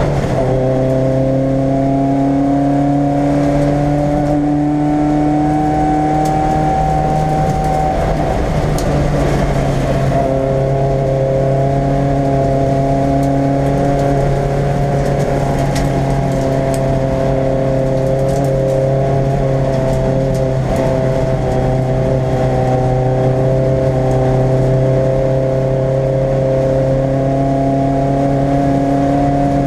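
Race car engine running hard, heard from inside the stripped cabin: a loud, steady engine note that breaks and shifts about nine seconds in before settling again, with a few sharp clicks along the way.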